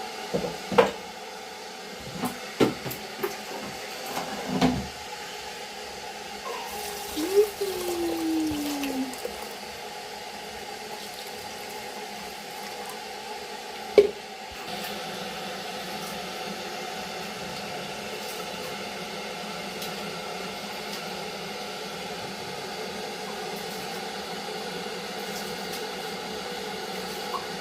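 Raw rice being washed by hand in a bowl of water: water sloshing and swishing, with a few sharp knocks in the first seconds. From about halfway a steady hum sits under the water sounds.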